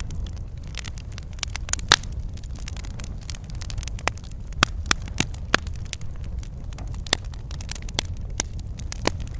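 Wood fire crackling in a fireplace: irregular sharp pops and snaps, the loudest about two seconds in, over a steady low rumble of the burning fire.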